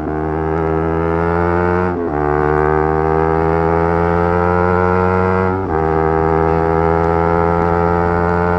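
Yamaha YZF-R3's parallel-twin engine pulling hard at high revs, its pitch climbing steadily under acceleration. It makes two quick upshifts, about two seconds in and again past halfway, each a brief dip in sound followed by a lower pitch that starts climbing again.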